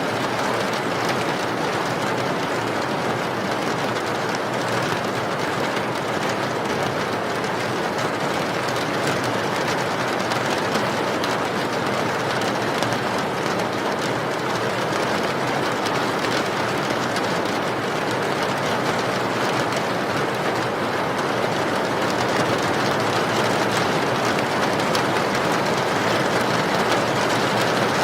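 Steady rain falling, an even continuous hiss with a fine patter of drops.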